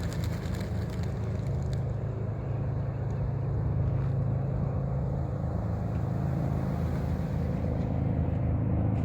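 A vehicle engine running steadily: a continuous low rumble with no clear change in pitch.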